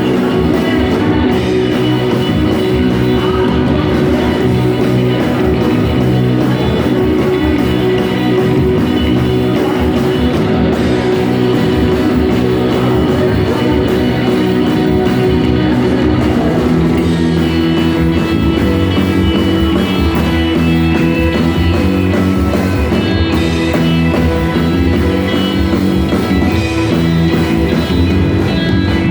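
Rock band playing live: an instrumental stretch with guitar and drums and no singing. The pattern of the playing shifts about halfway through.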